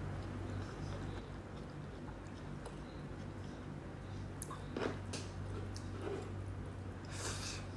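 A person chewing food with mouth closed, with a few soft clicks and a brief rustle near the end, over a steady low hum.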